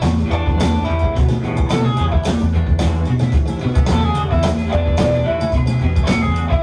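Live rock band playing without vocals: a drum kit keeping a steady beat with cymbal hits, electric bass holding low notes, and guitar lines over them.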